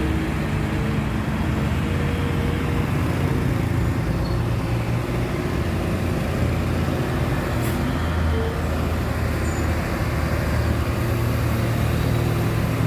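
Heavy truck engines running in slow roadside traffic: a steady low engine drone under road noise.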